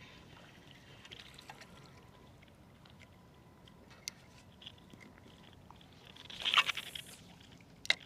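Small splashes and drips of water around a kayak, with a louder splash about six and a half seconds in and a sharp click near the end.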